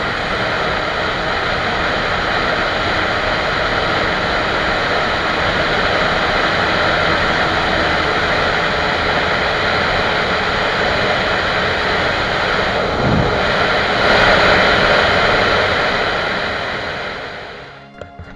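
Wind rushing over the mic with a small motorcycle engine running steadily at speed. It swells briefly and then fades out near the end.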